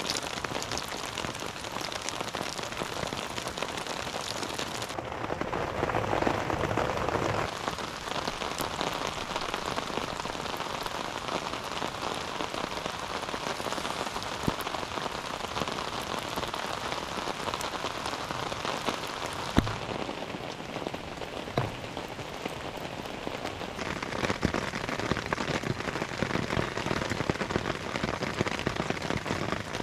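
Steady rain falling, heard as a continuous hiss full of separate drop hits, with one sharper knock about twenty seconds in.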